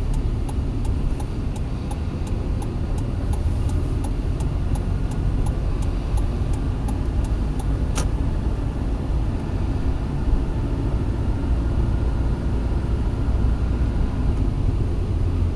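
Steady engine and road rumble inside a car's cabin, with the turn-signal indicator ticking about three times a second, ending with a sharper click about eight seconds in as the signal cancels.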